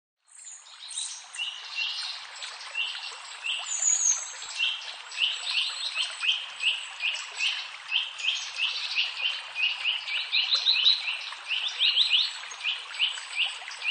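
Birds chirping: a long run of short, sharp chirps, about two to three a second, some overlapping, over a steady hiss of background sound.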